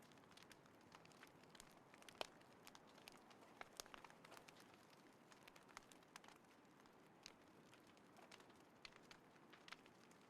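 Small campfire in a compact folding fire pit crackling quietly: irregular sharp pops and ticks over a faint hiss, with one louder pop about two seconds in.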